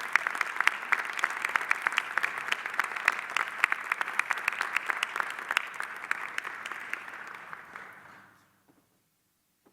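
Audience applauding, a dense steady mass of clapping that fades away about eight seconds in.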